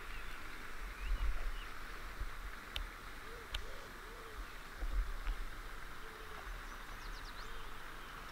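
Outdoor ambience: a steady hiss with faint bird chirps, including a few quick high chirps near the end.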